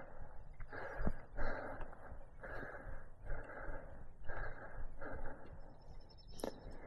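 A hiker breathing hard on an uphill climb, steady in-and-out breaths about one and a half a second, over a low rumble. A sharp click about six and a half seconds in.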